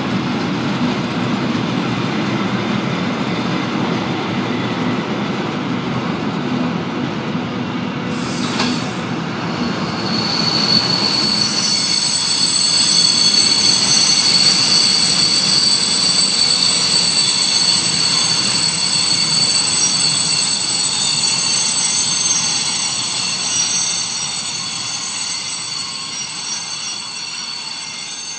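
Freight train of high-sided open goods wagons rolling past, its wheels rumbling on the rails. From about ten seconds in, the wagons' wheels set up a loud high-pitched squeal of several steady tones that holds for some fifteen seconds, then fades as the end of the train goes by.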